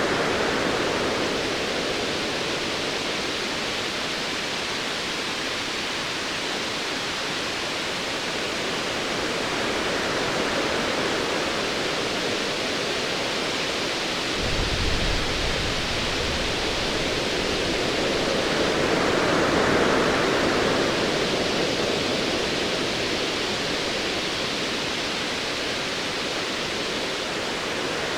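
Ocean waves surging in slow swells, with a low rumble of distant thunder about halfway through.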